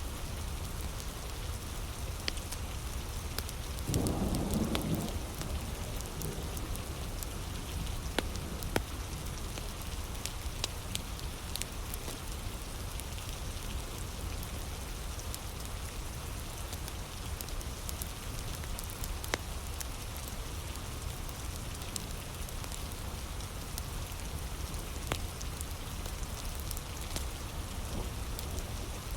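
Heavy rain falling steadily, with a wood fire crackling: sharp pops and snaps scattered throughout. A short, louder low burst comes about four seconds in.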